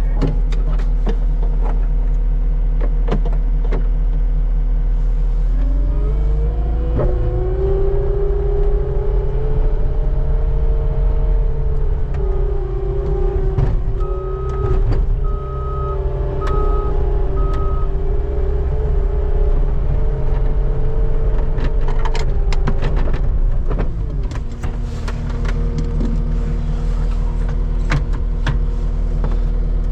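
Skid steer engine running, rising in speed about six seconds in and holding high for most of the stretch before dropping back to a lower speed, with scattered knocks and clanks from the bucket scraping snow. Four short beeps sound in the middle.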